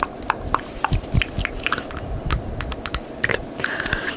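Close-miked ASMR mouth sounds: rapid, irregular wet tongue and lip clicks, several a second, made to mimic invisible clips snapping. A short hiss of breath or spit comes near the end.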